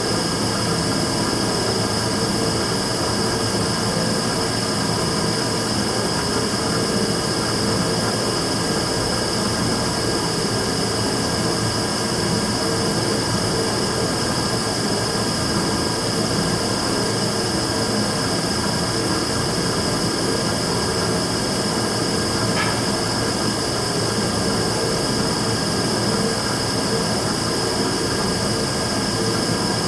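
Immersion-tube burner running with a steady roar and a constant high-pitched whistle over it, recorded as the burner's abnormal noise.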